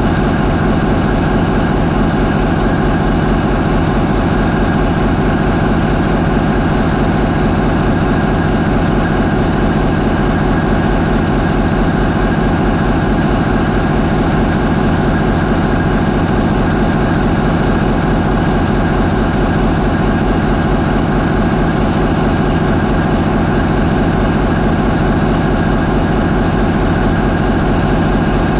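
MAN 20V28/33D STC twenty-cylinder V marine diesel main engine of a high-speed ferry, running steadily at 550 RPM. It is a loud, even drone with no change in speed.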